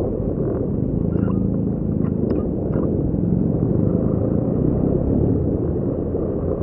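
Motorcycle running on the road at a steady pace, heard as a dense, steady low rumble.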